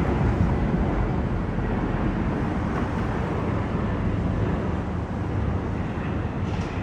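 Steady low rumble of a distant airplane, with wind on the microphone.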